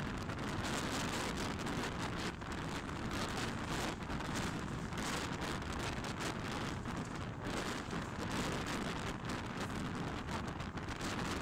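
Sri Lanka Railways Class S11 diesel multiple unit on the move, heard from on board: a steady rushing noise of wheels on the rails and passing air.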